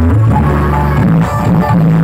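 Loud electronic dance music with a heavy, sustained bass line, played through a large carnival sound system.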